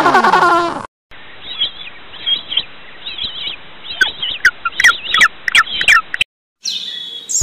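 Birds chirping in many short, quick calls that grow busier toward the end. A second of a lower-pitched animal call comes before them, and the chirping cuts off abruptly.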